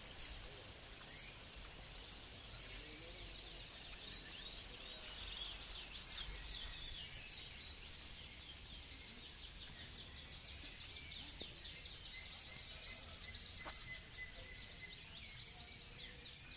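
Caged songbirds singing, with rapid high trills and chirps overlapping throughout.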